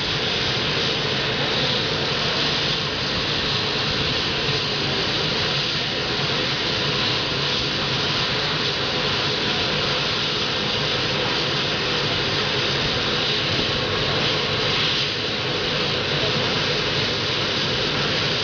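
Competition pulling tractor running at high power, a loud, steady engine noise that holds level without a break.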